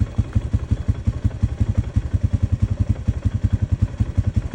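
Engine idling steadily with an even low thumping of about ten beats a second.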